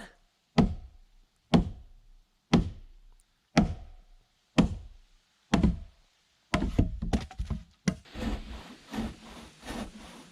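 Hand tool striking wood about once a second, each blow a sharp knock on log timber, then a quicker, denser run of strokes over the last few seconds.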